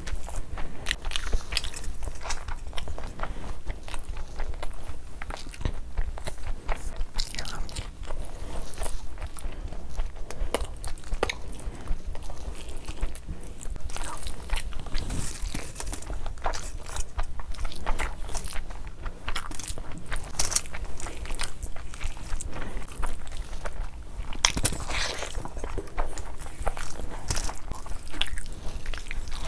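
Close-miked eating: wet chewing and smacking of a mouthful of rice and mutton liver curry, with the squishing of a hand mixing rice into curry. Dense, irregular short clicks and smacks throughout.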